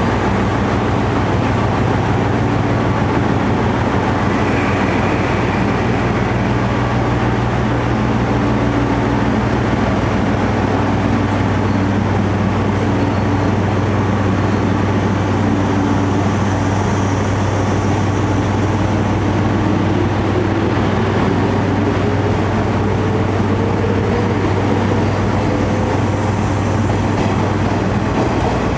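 A train running steadily at the station platform, a constant low hum, with a tone slowly rising in pitch from about twenty seconds in.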